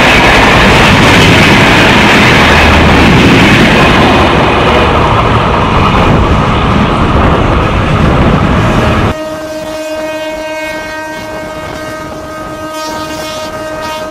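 Loud rushing wheel-and-wind noise of two trains running side by side at speed, heard from the open doorway of one of them. About nine seconds in it cuts abruptly to a quieter scene where a train horn sounds a steady, held chord of several tones.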